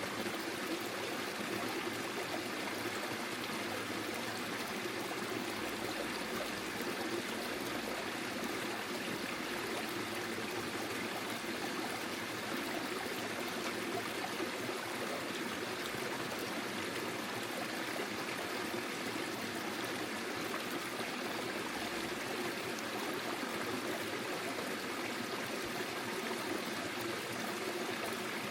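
Forest stream flowing and trickling, a steady even rush of water with no change.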